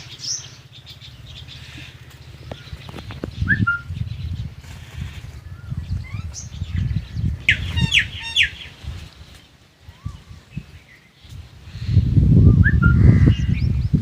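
Birds chirping and calling in short, scattered upswept notes, with a quick run of calls about halfway through. A low rumbling noise runs underneath and swells loudest near the end.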